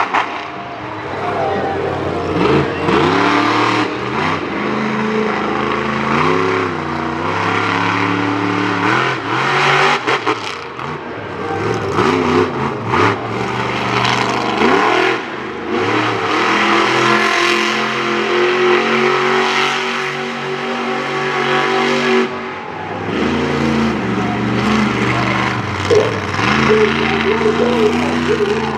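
Monster truck engines running loud and revving up and down again and again, with the pitch rising and falling several times.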